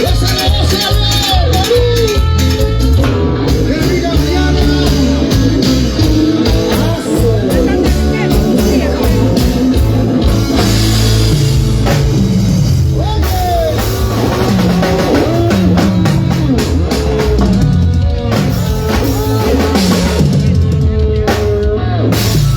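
Live band rehearsing a tropical cumbia number: drum kit, bass and electric guitar playing loudly, with gliding guitar or vocal melody lines over a steady beat.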